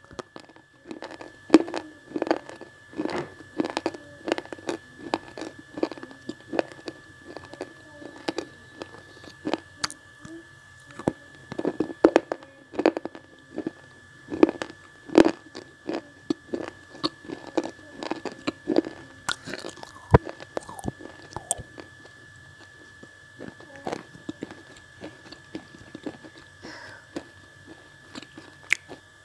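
Close-up crunching and chewing of slate blocks (slate-pencil material) right at an earphone microphone held to the lips, many sharp crunches in quick succession that thin out near the end. A faint steady high-pitched tone runs underneath.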